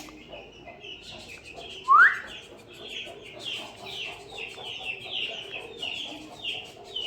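Pet birds calling: a rapid run of short, falling chirps, with one loud rising whistle about two seconds in.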